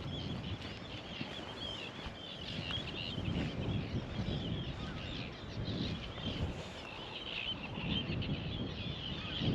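Many birds calling at once, a dense, continuous run of short high chirps, over a low rumble.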